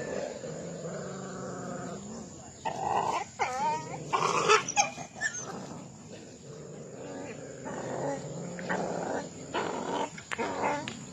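Street dogs growling low and steadily, then breaking into a scuffle of loud barks and yelps about two and a half seconds in, with more barking and yelping in the last few seconds.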